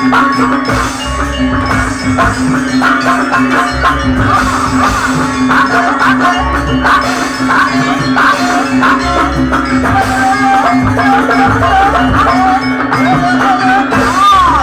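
Live Javanese traditional ensemble music: drums and struck metal percussion over a steady low drone, with a sliding melody line coming in about halfway through.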